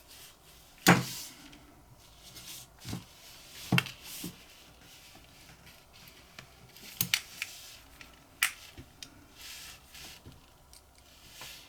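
Small metal lighter parts clicking and tapping as they are handled and fitted together: a few sharp clicks, the loudest about a second in, with soft rustling between.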